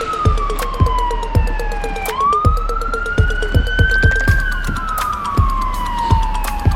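Emergency vehicle siren in a slow wail: it falls, rises over about two seconds, then falls again over about two and a half. Regular thuds come about twice a second underneath it.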